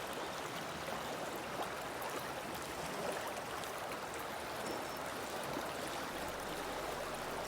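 River water flowing over a woodland streambed: a steady, even rush and babble.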